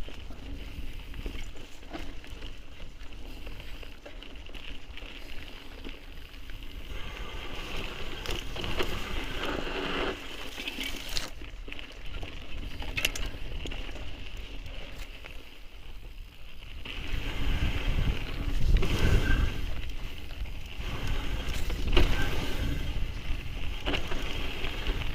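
Mountain bike ridden down a dirt trail: tyres rolling over rough ground, with the chain and frame rattling and sharp knocks here and there. It gets louder and rougher in the second half.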